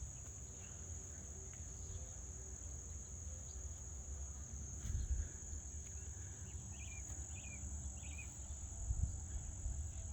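A steady high insect trill like crickets, with a few short bird chirps about seven seconds in and a couple of low bumps.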